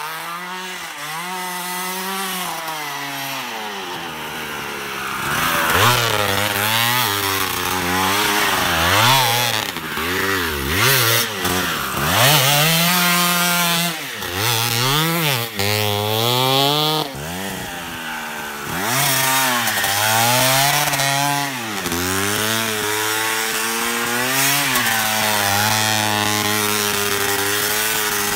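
Yamaha DT200R's single-cylinder two-stroke engine revving hard and dropping back again and again, its pitch climbing and falling every second or two. It is quieter for the first few seconds and grows louder as the bike comes close.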